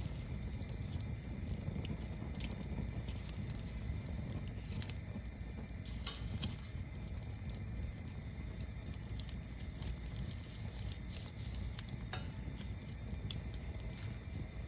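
Tower-stacked wood bonfire burning, with irregular crackles and pops over a steady low rush of flame.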